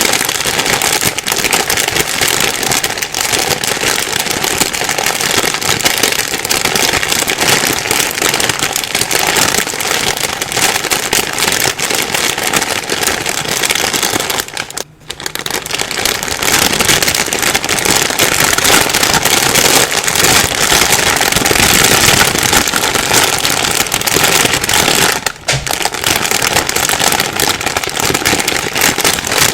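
Plastic bag being rustled and crumpled continuously, a dense crackling, with two brief pauses about halfway and near the end.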